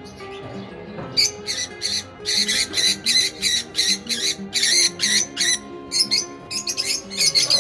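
Lovebirds squawking in short, harsh calls, several a second in irregular runs, over background music with steady sustained notes.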